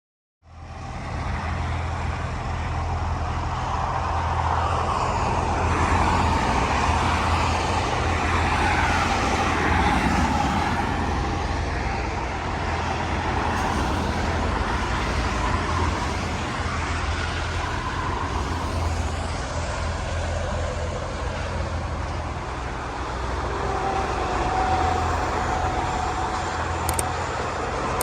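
Steady road-vehicle noise: a low engine hum under an even rush of tyres and traffic, with vehicles passing.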